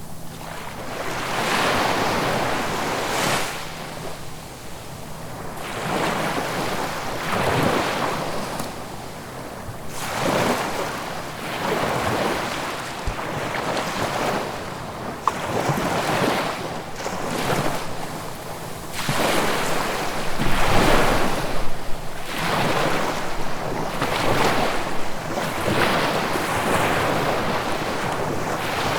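Ocean waves breaking and washing up on the shore, the surf rising and falling in repeated surges every couple of seconds.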